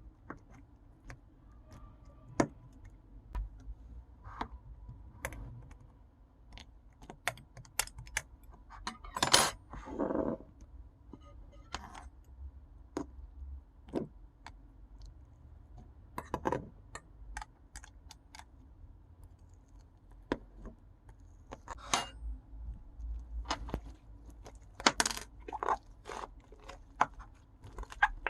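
Pink slime and clay slime being kneaded and mixed by hand, giving off scattered sharp clicks and little pops, with louder squishing bursts about a third of the way in and again near the end.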